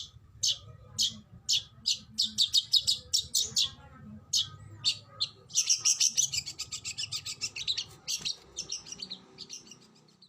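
Oriental magpie-robin (kacer) singing: sharp, high notes repeated about twice a second, speeding up into quick runs, with a dense rapid-fire stretch of notes in the middle.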